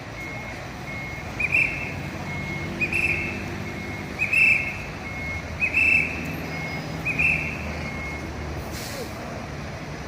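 Fire truck's engine running with an electronic warning beep repeating about every second and a half, fainter short tones between the beeps. A short hiss of air comes near the end.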